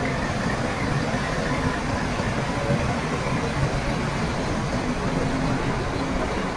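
Diesel engine of heavy earthmoving machinery running steadily under load, a dense continuous mechanical noise.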